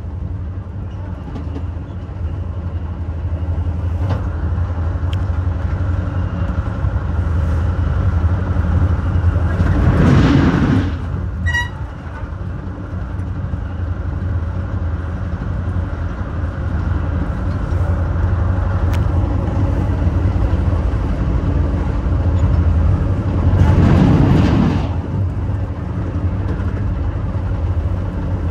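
Metra commuter train running at speed, heard from inside the rear cab car: a steady low rumble of wheels on rail. It swells into a louder rush about ten seconds in and again about fourteen seconds later, with a brief high beep just after the first swell.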